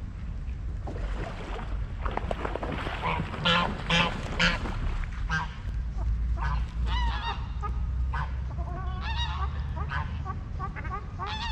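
Waterfowl honking repeatedly, many short calls overlapping, loudest about four seconds in and then thick calling through the second half, over a steady low rumble.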